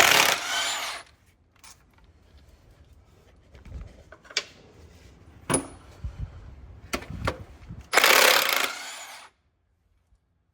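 Milwaukee cordless impact wrench run in two bursts of about a second each, one at the start and one about eight seconds in, breaking loose tight steel bolts threaded into cast iron. Small clinks and knocks of the socket and tools come in between.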